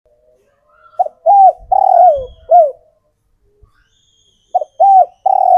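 Male spotted dove singing its cooing song: a phrase of four coos about a second in, the third held longest and sliding down at its end, then the next phrase begins near the end. It is the male's advertising call, used to call females.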